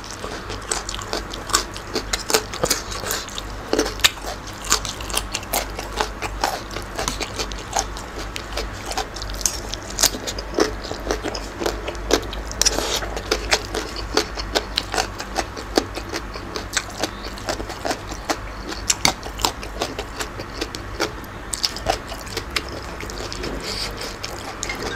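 Close-miked chewing and crunching of a mouthful of Thai green papaya salad with squid: many irregular crisp crunches, with the odd scrape of a spoon.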